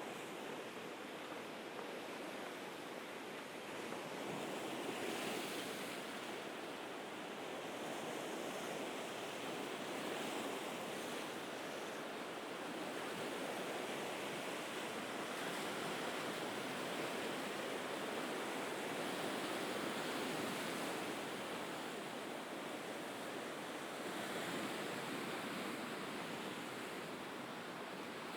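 Mediterranean sea waves washing against the shore, a steady hiss of surf that swells and eases every few seconds.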